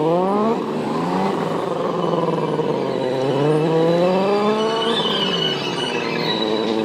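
Superbike engine pulling hard: the pitch rises and drops sharply at a gear change about half a second in, then climbs again over the next few seconds and falls away near the end as the throttle closes.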